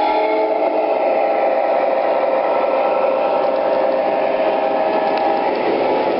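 O scale model trains running on the track: a steady whir of electric motors and gears with the rumble of wheels on rail. A horn sound fades out in the first half second.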